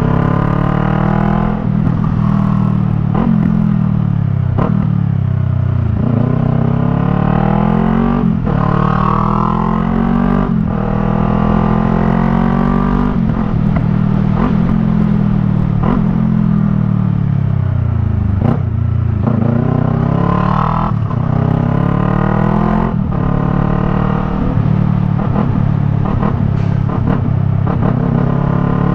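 Yamaha MT-03's parallel-twin engine through a Jeskap R3 Cup aftermarket exhaust, ridden hard: several rising pulls through the gears, each ending in a sudden drop in pitch at a gearshift, with a few stretches held steady and others easing off with falling pitch.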